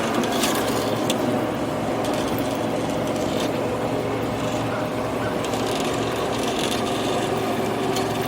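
Bumper boat's small motor running steadily, with a few faint clicks over it.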